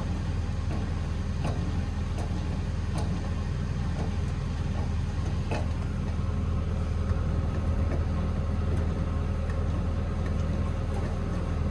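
An engine running steadily at idle, a low, even hum with faint ticks every second or so.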